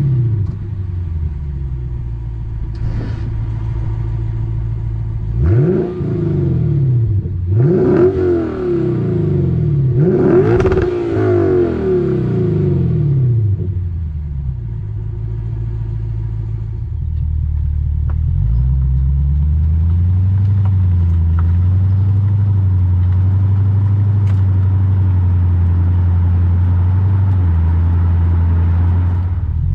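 Lexus IS500's 5.0-litre V8 through an RR Racing R2 axle-back exhaust, essentially a muffler delete: idling, then blipped in three quick revs that rise and fall back to idle. From a little past halfway it settles into a steady drone as the car is driven.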